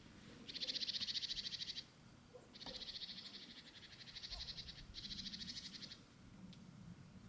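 A small bird's rapid, high-pitched trill, given three times: a short one about half a second in, a longer one in the middle and a shorter one near the end.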